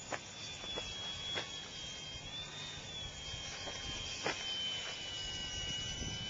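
A small radio-control plane's electric motor whining steadily, its pitch swelling briefly and then easing off as the throttle changes. Wind rumbles on the microphone, with a few sharp clicks.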